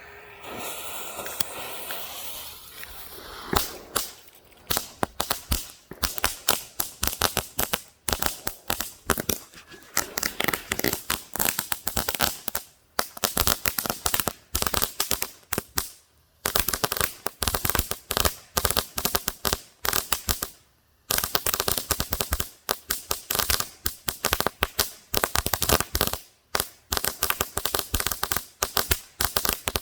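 Singing Cicadas crackling firework going off: a few seconds of hiss, then loud, dense, rapid crackling pops in bursts, broken by brief pauses.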